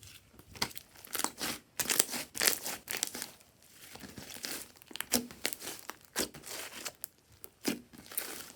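Hands kneading and stretching glossy slime, making irregular clicks, pops and crackles in quick clusters.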